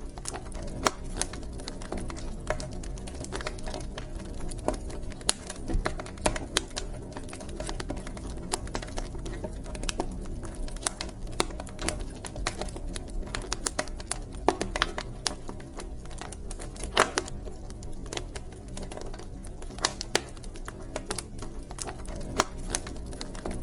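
Wood fire in a fireplace crackling: irregular sharp pops and snaps from the burning logs, a few louder ones scattered through, over a low steady rumble of the flames.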